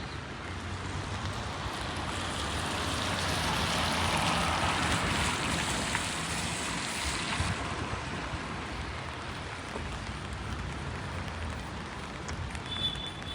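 Rain on a wet city street, with a vehicle's tyres hissing past on the wet road, swelling to its loudest about four seconds in and fading away by about eight seconds.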